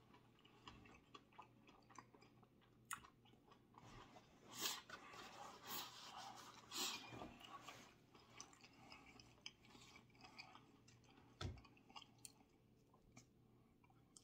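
Faint close-up chewing and wet mouth sounds of a person eating, with a few short louder smacks and clicks scattered through.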